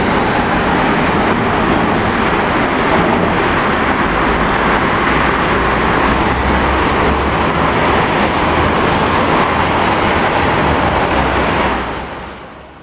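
Steady rushing noise of a MARTA rail train running away from the station, mixed with highway traffic, with a low rumble underneath. It fades out near the end.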